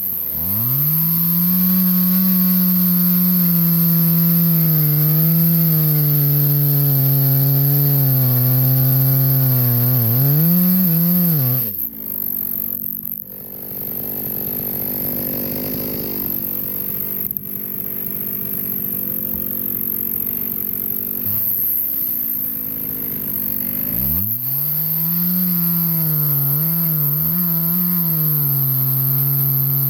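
Two-stroke chainsaw running at high revs while cutting log sections, its engine note wavering and dipping as the chain bites into the wood. About halfway through the high note drops away to a lower, rougher running for several seconds, then the saw revs up and cuts again.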